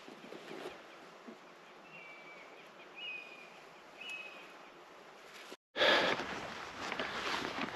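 Quiet woodland ambience with a small bird giving three short chirping calls about a second apart. After an abrupt cut near the end, loud rustling and footsteps from someone walking with the camera.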